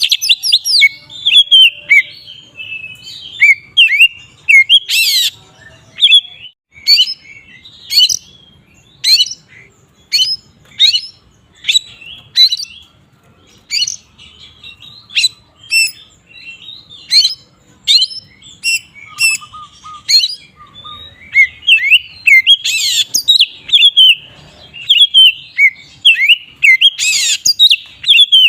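Oriental magpie-robin (kacer) in loud, full open song (ngeplong): a long run of sharp, high whistled notes and quick downward sweeps, about one a second, broken a few times by denser warbled passages.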